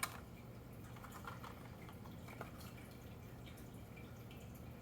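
Faint taps and clicks of packaged Hot Wheels diecast cars being handled, with a sharp click at the start, over a low steady hum.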